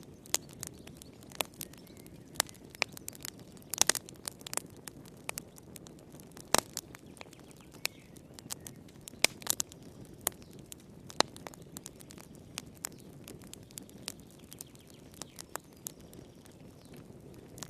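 Wood fire crackling: irregular sharp pops and snaps, a few much louder, over a steady low rushing hiss of the flames.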